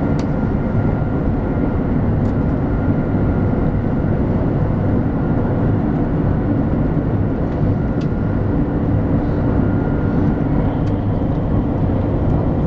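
Cabin noise of a 200 series Shinkansen train running at speed: a steady, loud rumble of wheels and running gear, with a faint steady whine that fades in and out and a few sharp ticks.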